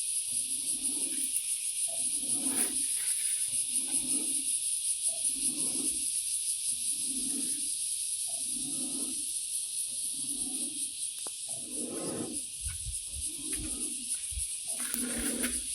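A steady high-pitched insect chorus, with a low call repeating roughly once a second underneath.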